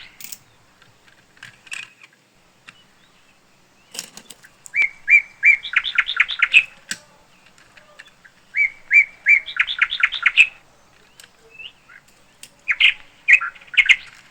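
A songbird singing: a phrase of a few clear whistled notes running into a quick trill, repeated three times. A short clatter of clicks sounds about four seconds in.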